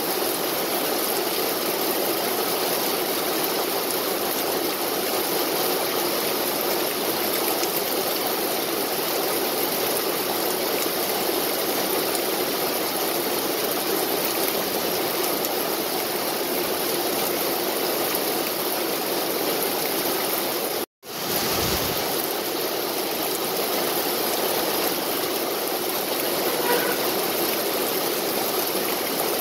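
Steady, heavy rain falling: an even, unbroken hiss of rain on leaves and ground. It cuts out for an instant about two-thirds of the way through, then resumes.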